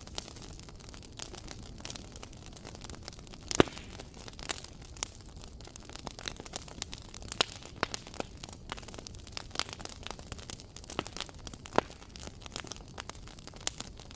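Wood fire crackling: a steady low hiss with irregular sharp pops and snaps, the loudest about three and a half seconds in.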